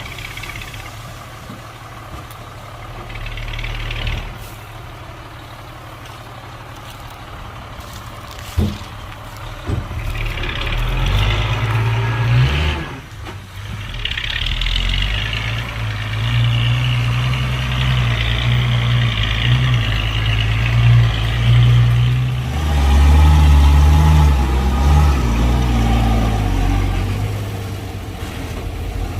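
Heavy diesel engines of a bulldozer and dump truck at work, a low drone that grows louder about ten seconds in and again about twenty-two seconds in. A single sharp knock comes about eight and a half seconds in.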